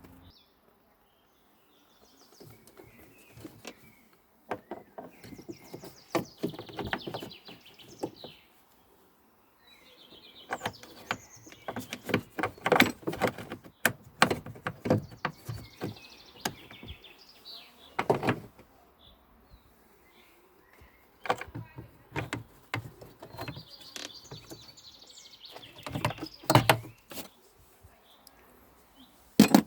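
Car door being worked open and shut, its hinge or check strap creaking in drawn-out squeaks, with repeated knocks and clunks of the door and its latch; this is the door noise the fix is aimed at.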